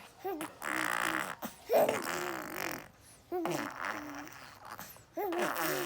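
A six-month-old baby blowing raspberries: fart-like lip buzzes mixed with her voice, in several bursts of about a second each with short breaks between.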